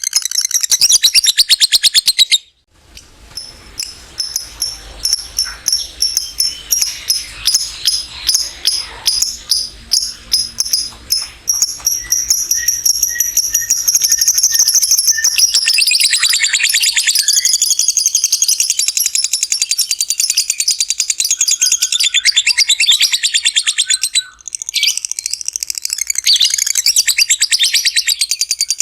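Lovebird giving its long 'ngekek' chatter: a rapid, high-pitched trill of repeated notes. It is broken by short pauses about two and a half seconds in and again near the end, and runs as separate quick bursts for several seconds before turning into one continuous trill.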